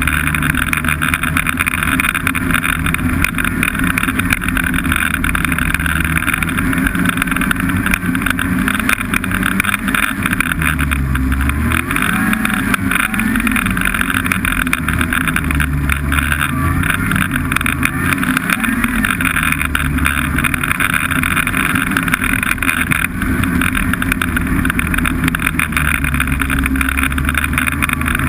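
Snowmobile engine running steadily under way, its pitch rising and falling a few times with the throttle about halfway through.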